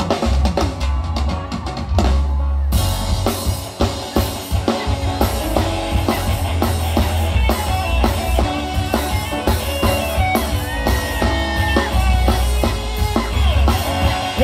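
Live reggae band playing an instrumental passage with the drum kit to the fore: kick, snare and rimshots over a heavy bass line. About two seconds in the cymbals and high end drop out briefly before the full band comes back in.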